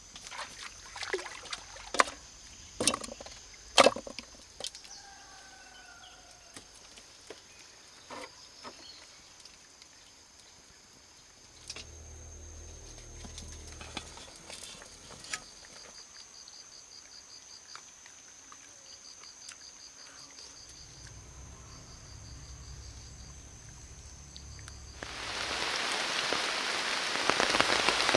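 A steady high insect drone with bursts of pulsing insect calls, and a few sharp knocks in the first few seconds. Heavy rain comes on suddenly about 25 seconds in and grows louder.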